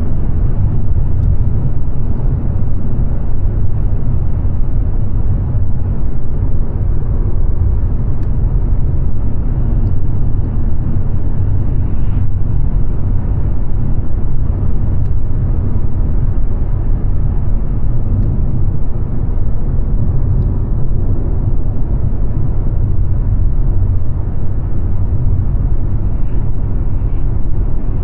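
Mercedes-Benz C-Class (W206) being driven at a steady pace: an even, low rumble of engine and road noise with no change in speed.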